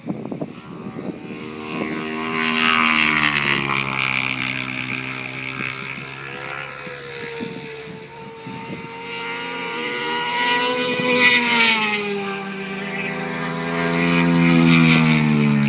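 Superbike engines passing at a steady cruise, one after another, each swelling and fading as it goes by, with the pitch dropping as the last one passes near the end.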